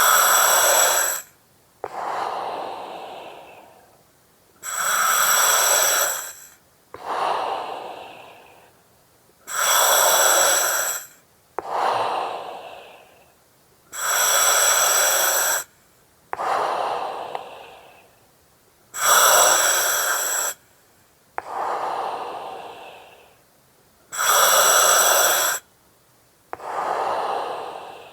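Slow, regular breathing through an oxygen mask: each breath is a hard-edged hiss of the mask's regulator, starting and stopping abruptly, followed by a softer breath that fades away. About six breaths, one every four to five seconds.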